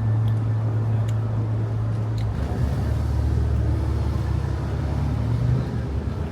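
Car interior noise while driving: a steady low engine and road hum that shifts to a deeper, broader rumble about two seconds in.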